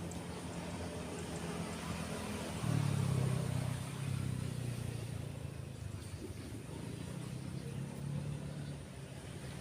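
A road vehicle's engine running as it passes: a low steady hum that swells about three seconds in, then eases back.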